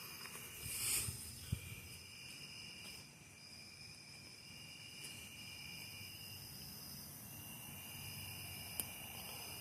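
Crickets trilling faintly, several at once at different pitches, their steady trills overlapping and taking turns. A brief rustle comes about a second in, and a single click near the end.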